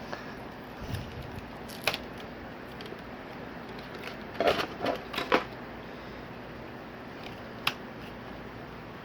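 Scattered clicks and knocks of TV parts being handled during disassembly, with a quick cluster of several about four to five seconds in.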